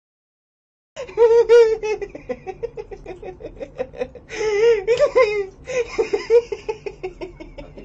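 A person laughing hard and high-pitched in quick repeated ha-ha bursts, starting suddenly about a second in and rising in stronger peals a few times.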